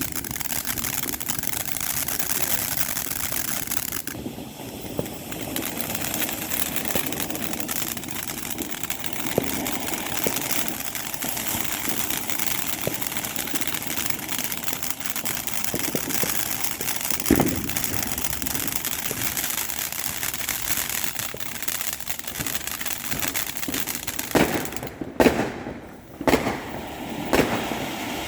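Consumer fireworks going off around a neighborhood: scattered pops over a steady hiss, then a quick run of loud bangs near the end.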